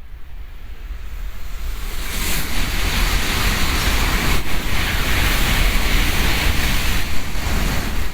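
Doctor Yellow 923 series Shinkansen inspection train passing through at high speed: a rush of air and rolling noise that builds over the first couple of seconds and stays loud.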